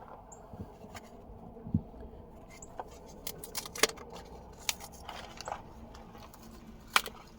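Metal sockets and tools clinking and clicking as a 10 mm socket is picked out of a socket set, in scattered light clicks with a sharper clink about four seconds in and another near the end.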